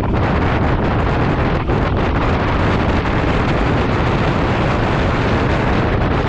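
Steady, loud wind rushing over the microphone on a moving motorbike, with road and engine noise blended in.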